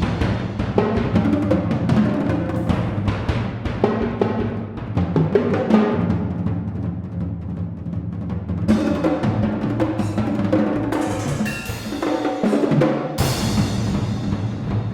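Percussion trio playing drums: rapid, dense strokes over low, ringing drum tones. The playing thins to quieter low drumming about six seconds in, and the dense strikes come back about two and a half seconds later.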